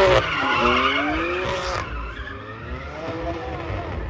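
Car engine revving up and down while the tyres squeal and skid, as in a drift or burnout. The tyre noise is loudest in the first two seconds and cuts off sharply; the engine keeps revving.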